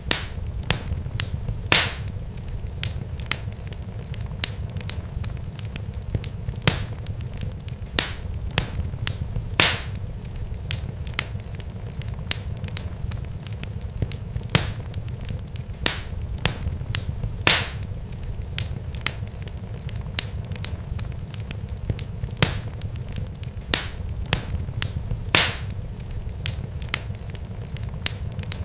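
Irregular crackling: many sharp pops and snaps at uneven intervals, with a louder crack every few seconds, over a steady low rumble.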